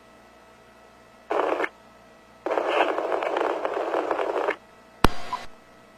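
Two-way police radio bursts: a short burst of static, then about two seconds of garbled radio transmission, then a sharp key-up click with a brief tail about five seconds in, over a faint steady hum.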